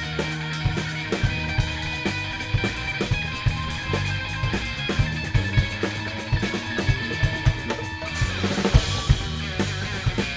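Live rock band playing an instrumental passage: electric guitars over a steady drum-kit beat, with a cymbal crash about eight seconds in.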